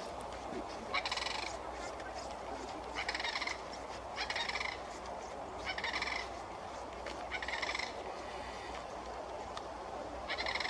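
Sandhill crane calls: about six rolling, rattling calls spaced a second or two apart.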